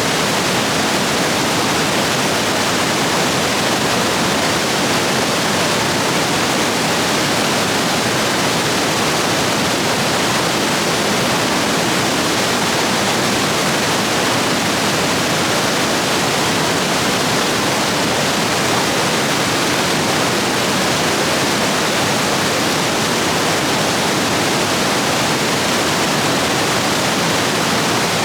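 Rapids rushing steadily, the stream running high after heavy rain.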